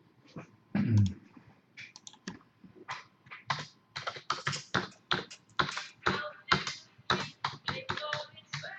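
Typing on a computer keyboard: quick, irregular key clicks that grow busier about three seconds in. A single low thump about a second in is the loudest sound.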